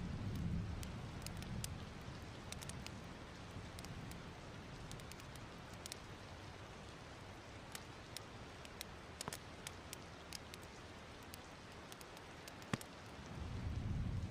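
Wood fire crackling, with frequent sharp little pops and one louder pop near the end, over a soft steady hiss. A low rumble fades out in the first couple of seconds and swells back in near the end.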